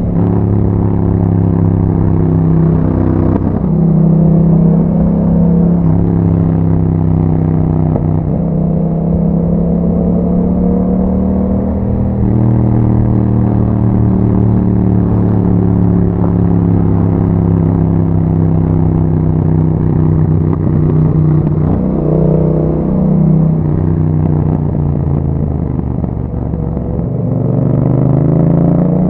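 Yamaha MT-07's parallel-twin engine running through an aftermarket Akrapovič exhaust while being ridden, mostly holding steady revs. The pitch drops and climbs again a few times, and the revs rise near the end.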